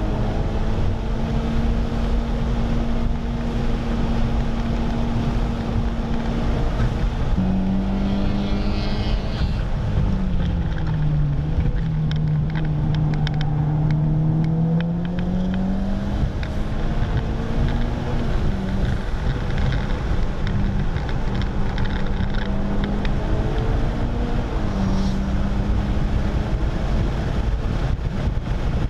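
A car's engine running hard at speed around a racetrack, heard from inside the cabin over heavy wind and road noise. The engine note drops about ten seconds in, stays lower for several seconds, then rises again as the car accelerates.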